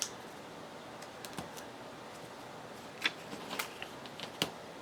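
A few light, scattered clicks and taps, each short and sharp, against a quiet room.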